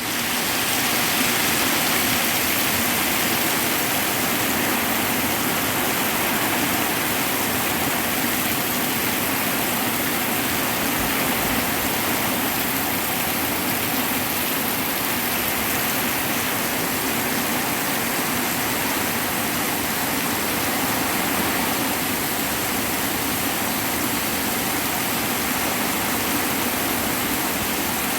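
Hard rain falling steadily: a constant, even hiss of water with no breaks and no thunderclap.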